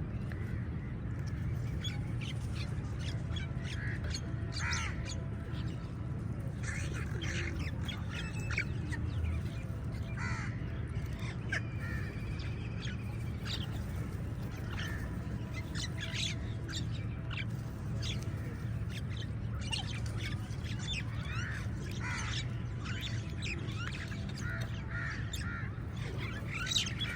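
A flock of crows cawing, many short calls overlapping and scattered throughout, over a steady low rumble.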